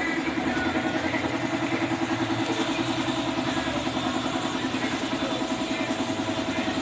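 A motor running steadily with a fast, even pulsing beat.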